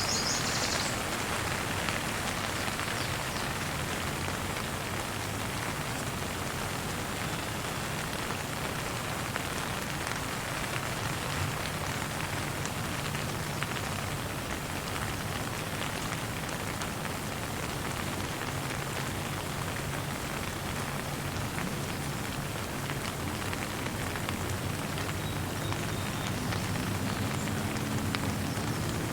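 Steady rain falling and pattering on surfaces, with one brief high bird chirp right at the start.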